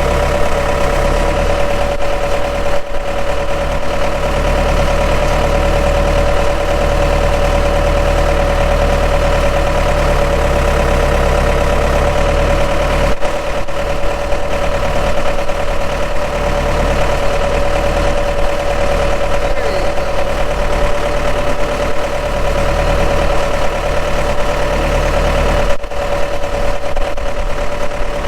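A skid steer's engine running steadily at a constant speed, with brief dropouts about 3, 13 and 26 seconds in.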